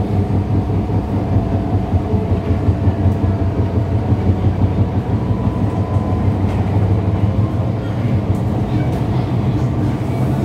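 Disneyland Resort Line electric train running along the line, heard from inside the carriage: a steady rumble with a continuous low hum and a higher steady tone from the running gear.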